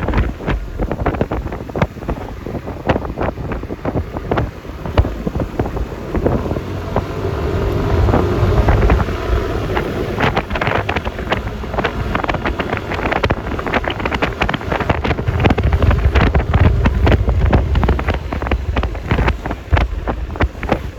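Wind buffeting and crackling on the microphone of a moving motor scooter, over steady road and traffic noise. A faint steady hum comes and goes in the middle.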